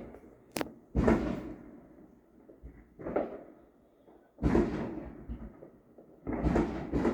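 Fireworks going off nearby, heard from indoors as muffled booms: four sudden bangs, each dying away over about a second, the second one weaker.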